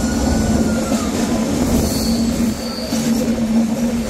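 Passenger train running with a steady rumble and low hum. Its wheels squeal against the rails in thin high whines: one slides down and fades in the first second, and another comes briefly about two seconds in.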